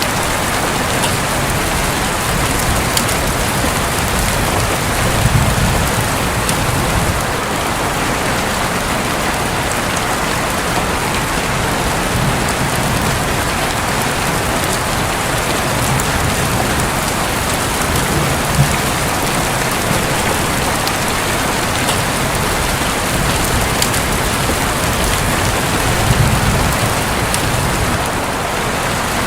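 Heavy rain falling steadily on a roof, a dense even hiss, with a few low rumbles of distant thunder swelling up softly now and then.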